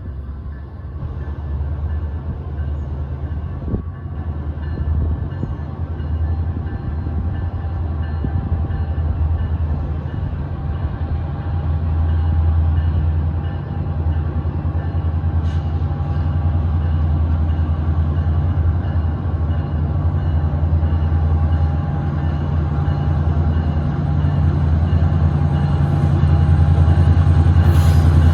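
A train running: a steady low rumble with faint steady tones above it, slowly growing louder.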